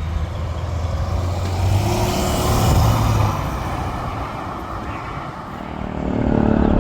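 A motor vehicle's engine drives past, loudest about two to three seconds in and then fading, and a second engine grows louder near the end.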